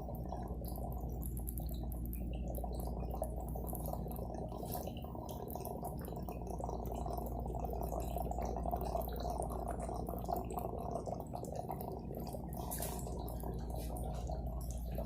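Water running inside a bathroom wall, heard through the wall as a steady, muffled rush with scattered faint ticks.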